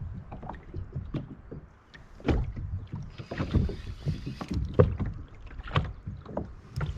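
Irregular knocks and clicks of handling on a small rotomoulded plastic boat while a fish is played on rod and reel, over a low rumble of wind on the microphone.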